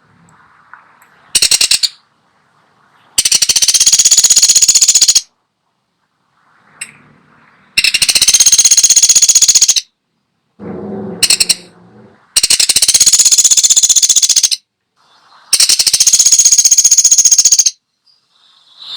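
Woodpecker (pelatuk sampit) giving loud, high-pitched, very fast rattling call series: one short burst, then four runs of about two seconds each with pauses between. A shorter, lower-pitched sound comes between the third and fourth runs.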